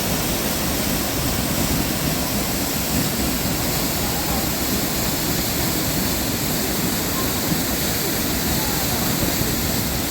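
Waterfall rushing: steady, even roar of falling water.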